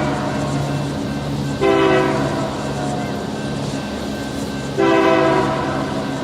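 Two short blasts of a Nathan Airchime K3LA five-chime locomotive air horn, the first about one and a half seconds in and the second near five seconds. Under them runs the steady drone of an EMD GP-series diesel locomotive.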